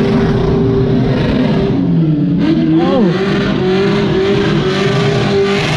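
Turbocharged LS1 V8 of a burnout car revving hard and held near a steady high rpm, with a short drop and quick rise in revs about two to three seconds in.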